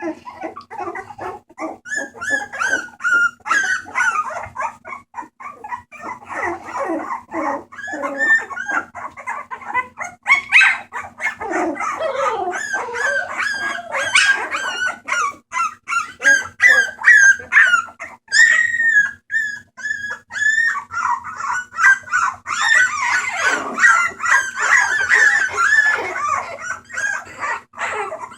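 Several bulldog puppies calling at once, short high cries overlapping one another without a pause.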